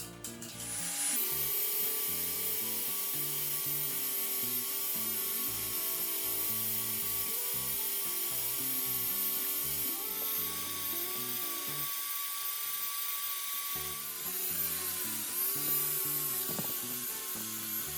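A small electric power tool running steadily with a high whine, its pitch wavering and dipping briefly near the end, over background music.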